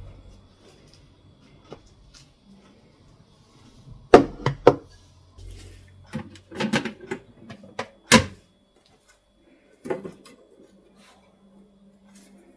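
A series of sharp knocks and clatters, like objects being handled and set down. There is a loud cluster about four seconds in and another single sharp knock around eight seconds in, with lighter taps in between.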